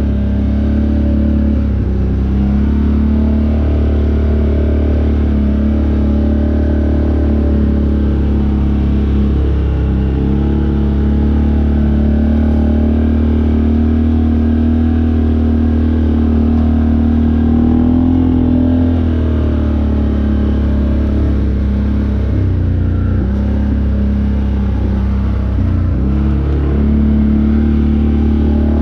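Off-road vehicle engine running steadily and loudly, its pitch rising and falling a little as the throttle is worked.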